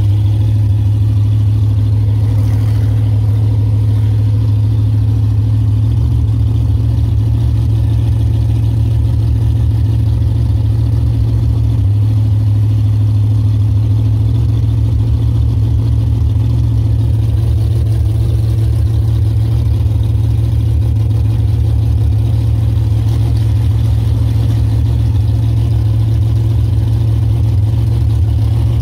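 Supercharged methanol-burning V8 of a 1350 hp '68 Camaro drag car running steadily at low revs, heard from inside the cabin as a deep, even drone with no revving.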